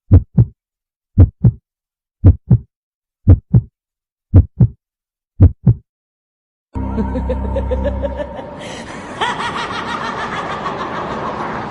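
Heartbeat sound effect: six double thumps (lub-dub), about one a second. Then, after a short silence, a different continuous sound with a low rumble and pitched tones begins.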